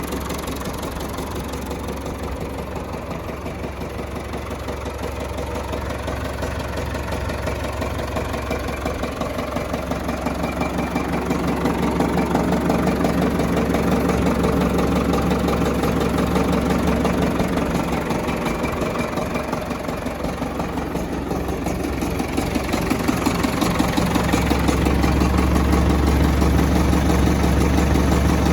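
Ford 641 Workmaster tractor's four-cylinder diesel engine running at a steady idle with a diesel clatter. It grows louder and softer over the stretch.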